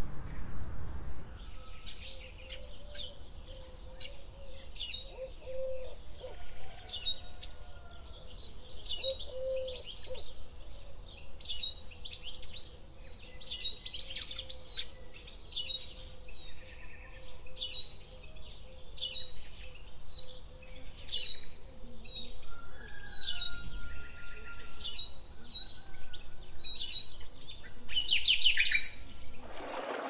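Small songbird chirping: a short, high chirp repeated roughly once a second, ending in a quick run of chirps.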